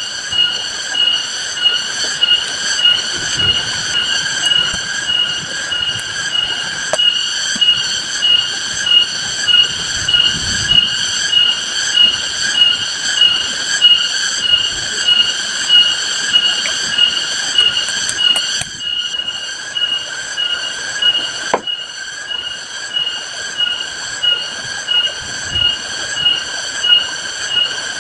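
A high, pulsing animal call repeating about twice a second, over a steady hiss of heavy rain.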